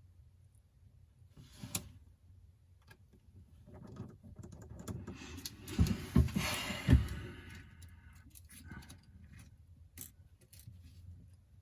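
Small metal tools and tiny phone parts being handled on a workbench: scattered light clicks and rattles, busier in the middle with a few louder knocks about six to seven seconds in.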